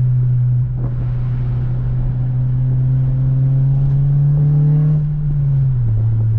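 8th-generation Honda Civic Si's 2.0-litre four-cylinder engine and exhaust under light throttle while driving. The engine note holds steady and climbs slowly in pitch, then drops a step in pitch near the end.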